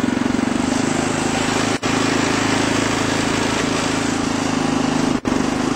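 Massey Ferguson lawn tractor's small air-cooled engine running steadily, back to running after its carburetor was cleaned of dirt. The sound breaks off for a split second twice.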